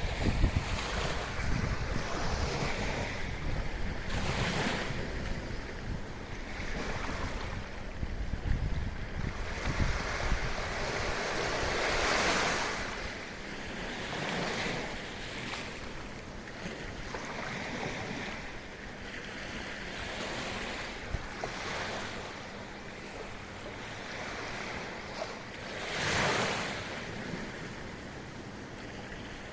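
Small sea waves breaking and washing up on a beach in a sheltered bay, each wash swelling and fading, the biggest about twelve seconds in and near the end. Wind buffets the microphone with a low rumble through the first third.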